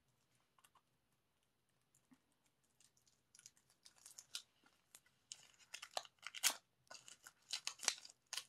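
Plastic packaging crinkling and tearing in quick crackles as an album is unwrapped, starting after a few quiet seconds and growing busier and louder toward the end.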